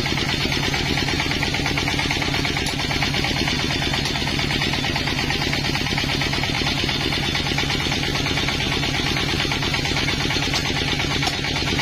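Sawmill's engine running steadily at a constant speed, with a rapid even pulse and a low, unchanging pitch.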